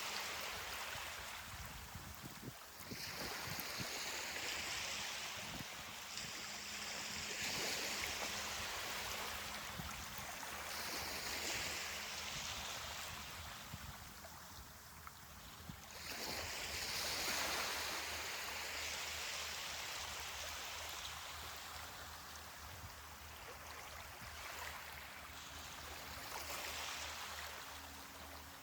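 Ocean waves washing up a beach: a hissing surge that swells and fades again every few seconds.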